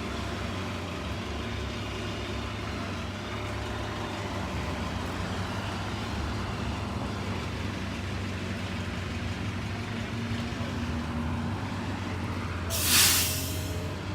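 Transit bus engine running with a steady low hum, then a sharp hiss of air brakes near the end lasting about a second.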